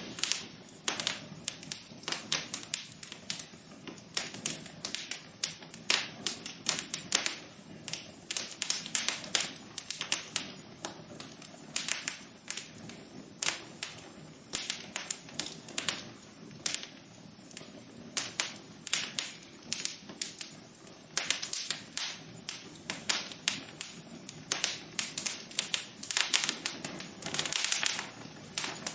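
Wood fire in a fireplace crackling: irregular sharp pops and snaps over a low steady hiss of burning, with a denser cluster of crackles near the end.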